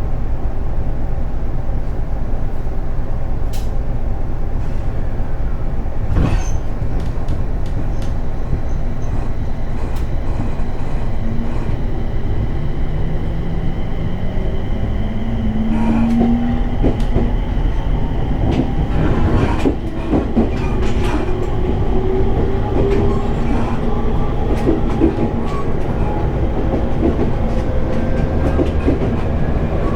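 Inside a JR 701 series electric train car running on the rails: a steady rumble of the wheels with scattered clicks. About halfway through, the traction motor whine starts and slowly rises in pitch as the train gathers speed.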